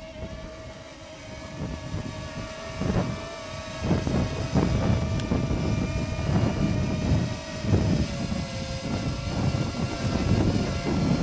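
Parrot Mambo mini drone hovering, its propellers giving a steady high whine that sags slightly in pitch near the end. Gusty wind buffets the microphone with a low rumble that grows louder after about two seconds.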